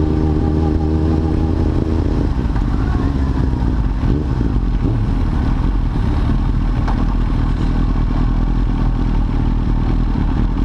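Kawasaki ZX-7R's inline-four engine running as the bike rides down the pit lane, its note even for the first couple of seconds and less distinct after that.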